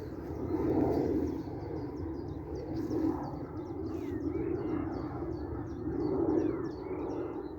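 Birds singing: one repeats short high chirps about three times a second, and others give calls that slide downward. Under them runs a steady rushing noise that swells and fades a few times and is the loudest sound.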